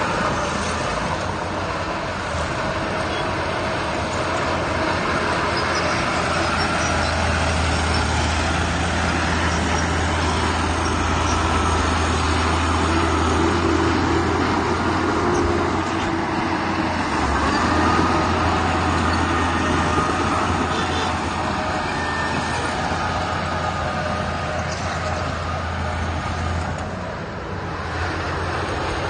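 Heavy diesel machinery running steadily with a low engine drone, briefly quieter near the end.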